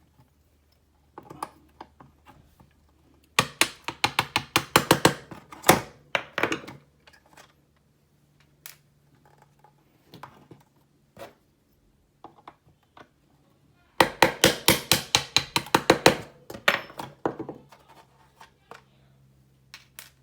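Quick runs of sharp tapping as pins are driven out of a plastic airsoft magazine to take it apart: two bursts of rapid strikes, each lasting about three seconds, the second starting about halfway through, with a few lighter taps between.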